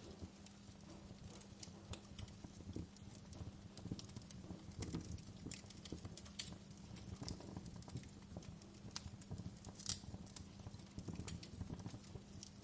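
Wood fire crackling: irregular sharp pops and snaps over a low steady rumble, with one louder pop about ten seconds in.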